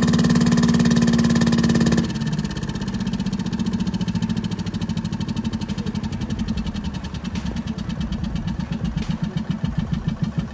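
Old engine running with an even beat of firing pulses; a loud steady drone cuts off about two seconds in, and the beat slows and grows uneven near the end.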